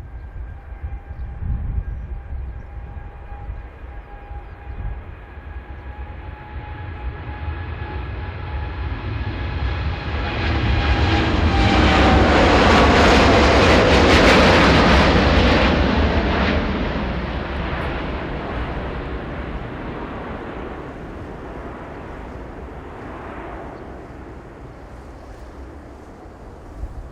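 Jet airliner on final approach passing low overhead: its engine whine builds to a peak about halfway through, the tones drop in pitch as it goes by, then it slowly fades. Gusty wind buffets the microphone throughout.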